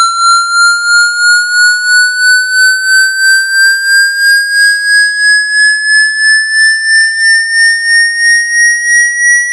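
Electronic water-eject tone: a shrill, slowly rising tone with a pulsing, siren-like wobble about three to four times a second. It is played through a phone to vibrate water droplets out of the charging port and speaker.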